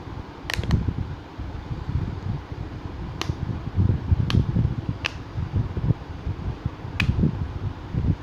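Handling noise: a low, uneven rumble with about six sharp clicks scattered through it.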